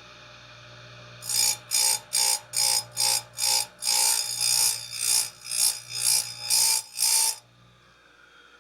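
Rapid, even sharpening strokes on a chainsaw chain's cutter tooth, about three a second, each a short rasp with a faint metallic ring. They start about a second in and stop suddenly near the end.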